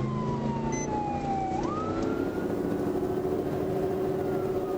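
Police siren wailing: its pitch falls slowly, sweeps quickly back up about one and a half seconds in, then falls slowly again, over steady vehicle engine and road noise.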